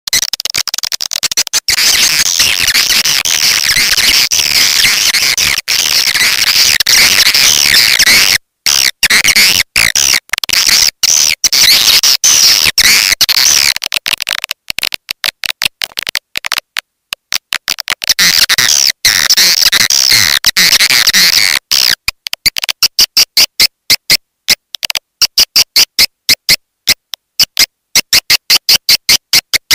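Swiftlet lure-call recording of the 'walet petir' type: loud, dense, high twittering of swiftlets, broken by short gaps. After about 22 s it changes to rapid, evenly spaced chirps, about four a second.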